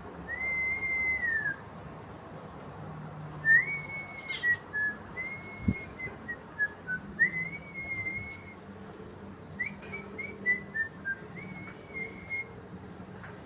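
Human whistling of a tune: two long arching notes, then runs of shorter notes that step down and climb back up.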